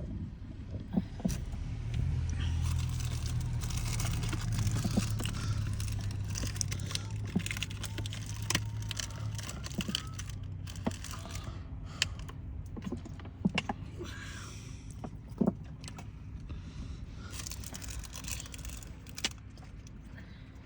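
Keys jangling, with scattered sharp clicks, over a low vehicle rumble that fades out about halfway through.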